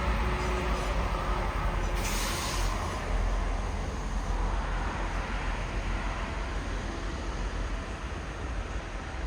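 A train running at a station platform: a steady low rumble, with a short hiss of air about two seconds in, slowly growing quieter.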